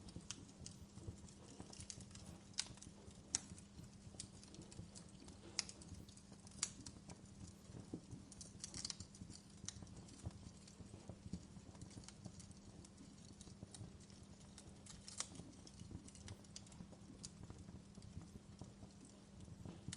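Wood fire crackling in a fireplace: faint, irregular pops and snaps, a few sharper ones, over a steady low hum.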